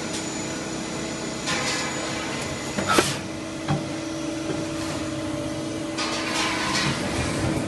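CNC lathe machining a steel rebar: a steady machine hum with a few hissing swells of cutting noise and a sharp clank about three seconds in.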